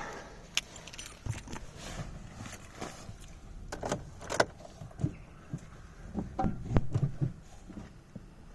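Car keys jangling, with scattered sharp clicks and knocks; no engine running yet.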